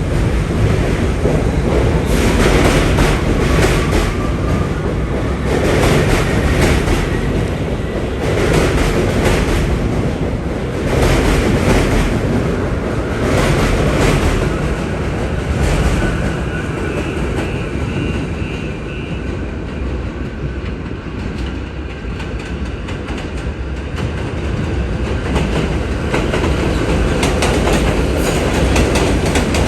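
New York City subway train running through the station, its wheels clattering over rail joints every couple of seconds over a continuous rumble. A faint high whine joins in for a few seconds past the middle.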